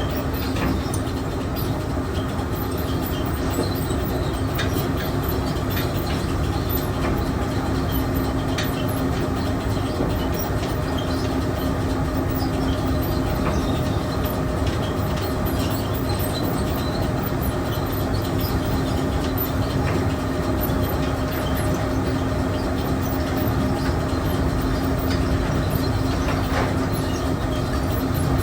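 Steady drone of feed-mill machinery running, a constant hum over a rumble with light rattling.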